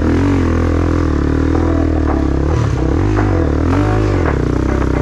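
Trail motorcycle engine revving hard, its pitch rising and falling over and over.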